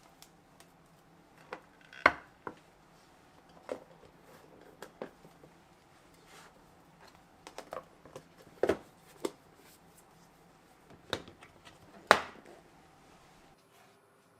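Irregular light knocks and clatter of kitchenware being handled, about a dozen separate impacts with the two loudest about two seconds in and near the end.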